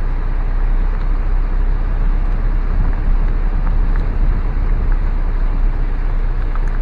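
Steady low rumble of a car rolling slowly, heard from inside the car.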